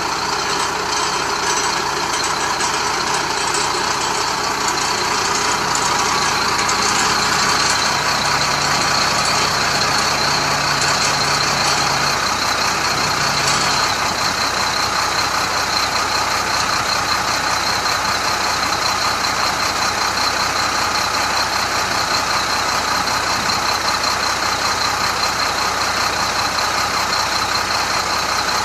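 Diesel engine of a Chenglong crane truck running steadily, with a steady high whine over it.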